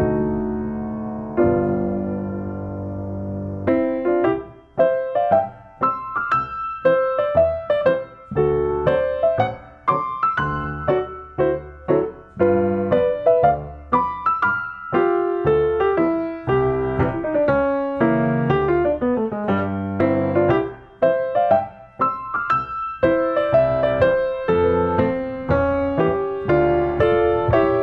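Background piano music: a few held chords, then from about four seconds in a steady melody of separate notes.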